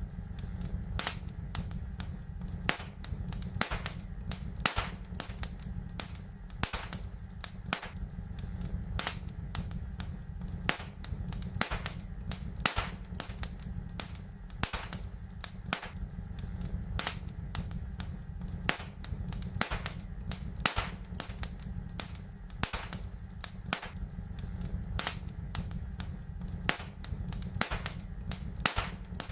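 Fire crackling in a fireplace: frequent sharp pops and snaps at an uneven pace over a steady low rumble.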